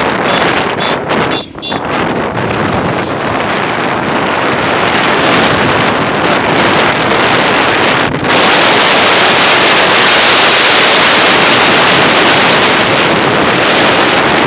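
Loud wind rushing over the microphone of a moving motorcycle, drowning out most other sound. It dips briefly about a second and a half in and again near the eight-second mark.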